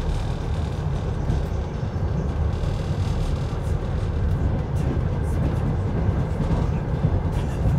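Moving passenger train heard from inside an Ammendorf sleeping car's corridor: a steady running rumble of the wheels on the track, with a few faint clicks and rattles.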